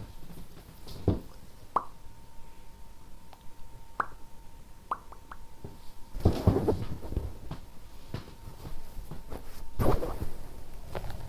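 Close-miked ASMR handling sounds: a few hollow plops and small clicks in the first half, then two short stretches of denser rustling and tapping about six and ten seconds in, over a faint steady whine.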